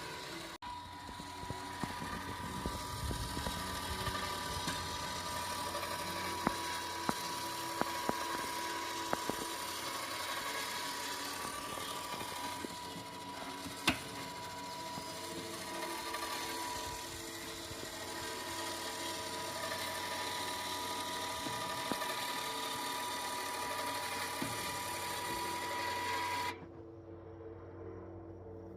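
A small electric motor running steadily with a high whine, with scattered sharp clicks and ticks. It cuts off abruptly near the end.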